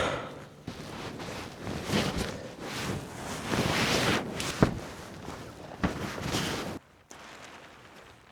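Wind gusting over the microphone in surges, with rustling and a couple of sharp knocks. The sound cuts off suddenly about two-thirds of the way through, leaving only a faint background.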